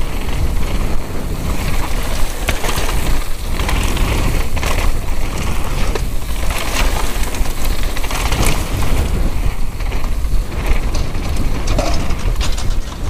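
Downhill mountain bike ridden fast over rough trail: tyres on dirt, with frequent rattles and knocks from the chain and suspension. Heavy wind buffets the helmet camera's microphone throughout.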